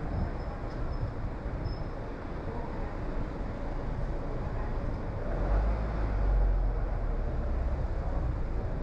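A car driving along a road: steady tyre and engine rumble, with a louder low rumble for a second or two past the middle.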